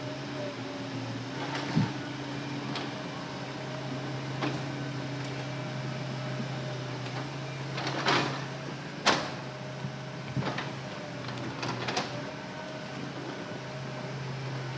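Hitachi Zaxis excavator running steadily under a low engine hum, with scattered sharp clunks and knocks, the loudest about eight and nine seconds in.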